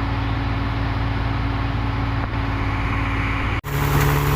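Heavy diesel engine running steadily at a constant speed. It breaks off abruptly about three and a half seconds in and comes back louder, with a deeper, steadier drone.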